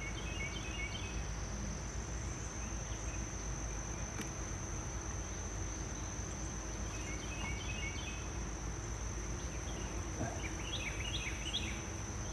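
Crickets or similar insects trilling: a steady high-pitched trill throughout, with short bursts of rapid chirping near the start, in the middle and near the end, over a low rumble.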